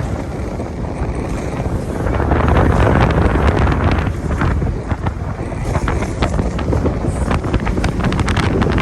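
Wind buffeting the microphone over the rush of a motorboat running at full speed, getting louder about two seconds in.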